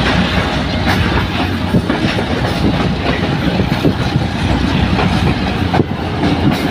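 A train running along the rails, a continuous rumble and rattle of wheels on track with scattered sharp knocks and clatter.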